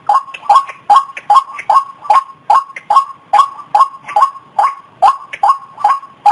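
White-breasted waterhen calling: a monotonous, evenly spaced run of short notes, about two and a half a second.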